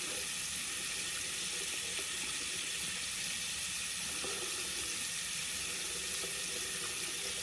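Hot water faucet running steadily, left open to test a gas water heater that is delivering only warm water.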